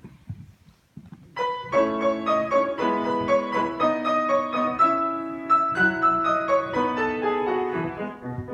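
Piano introduction to a song: after a brief hush, chords and a melody begin about a second and a half in and carry on in a steady rhythm.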